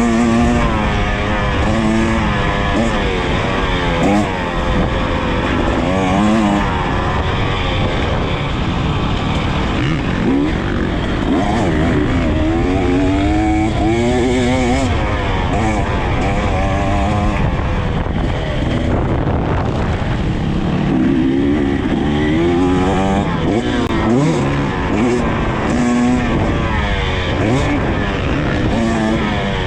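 KTM EXC 300 TBI two-stroke dirt bike engine being ridden hard, its pitch rising and falling again and again with throttle and gear changes, over steady wind noise on the microphone.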